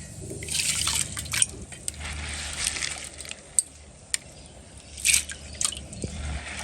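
Kitchen sounds of cooking at a pot: short hissing scrapes and a few sharp clinks over a low steady hum.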